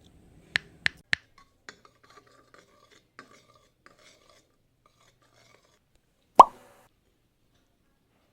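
Small hard objects being handled: three quick sharp clicks, a scatter of light taps, then one loud knock with a short ring about six seconds in.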